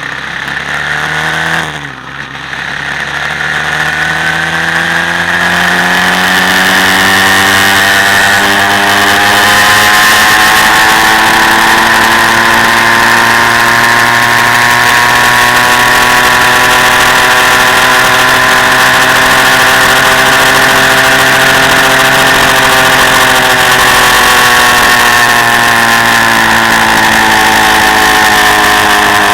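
Quad bike engine running under way: after a brief dip about two seconds in, its pitch rises for several seconds and then holds steady, easing slightly near the end.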